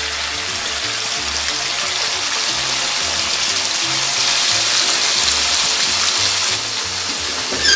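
Strips of marinated chicken sizzling in hot vegetable oil in a wok as they are dropped in by hand, the sizzle getting louder over the first few seconds as more pieces go in. Background music plays underneath.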